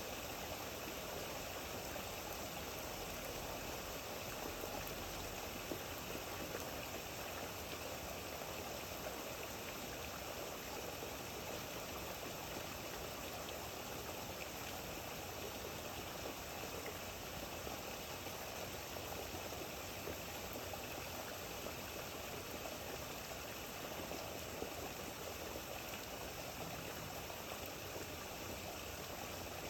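Steady rain falling, an even hiss with a few faint scattered taps.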